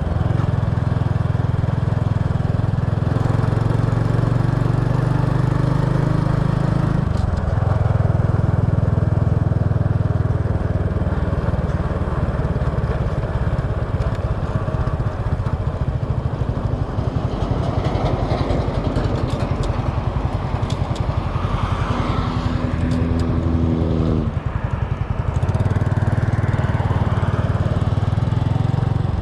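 Small motorbike engine running while riding, heard from a camera mounted on the bike, with a steady low rumble and road noise. The engine note changes about seven seconds in.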